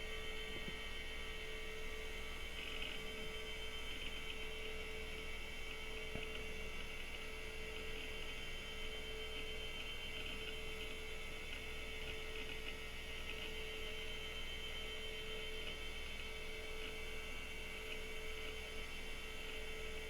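Steady electrical hum with a constant mid-pitched tone and a faint high whine from a running old desktop PC, with a couple of faint ticks.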